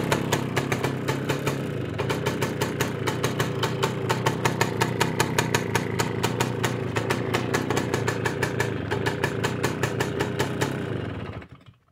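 Dezamet 017 two-stroke single-cylinder moped engine with an Amal 16 carburettor idling steadily with a regular firing beat, cold-started after a month of standing; about eleven seconds in it is shut off and dies away within half a second.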